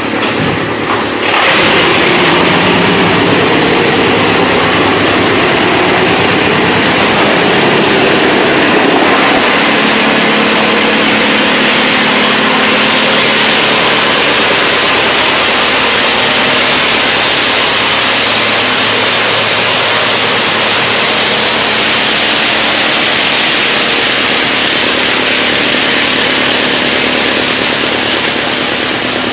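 BX218 wood chipper running with a loud, steady mechanical noise that steps up about a second in.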